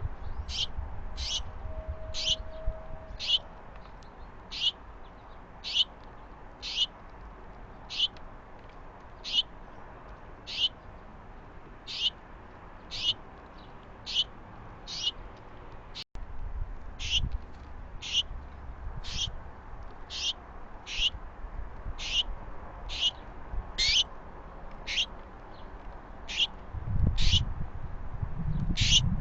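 A bird giving a short, high call over and over, about once a second, with a low rumble of background noise under it.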